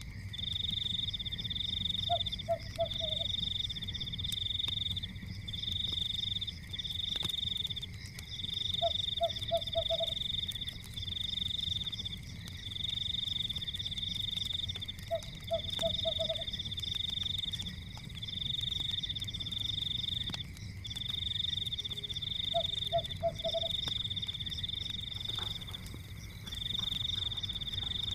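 A chorus of trilling frogs, pulsed high calls about a second long following one another with short gaps, with a lower four-pulse croak about every six or seven seconds. Underneath is a low rumble from a fire with scattered crackles.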